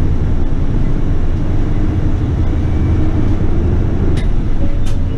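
City bus engine and drivetrain running with a steady low rumble, heard from inside the bus, with two light clicks near the end.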